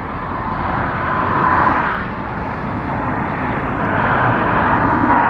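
Road traffic going by: a steady rushing noise that swells about a second and a half in and again near the end.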